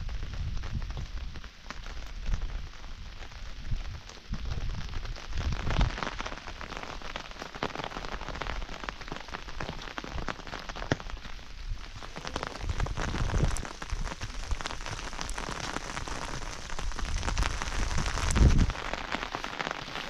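Heavy rain falling, a dense steady hiss full of small drop hits. Low rumbles come now and then, the strongest near the end.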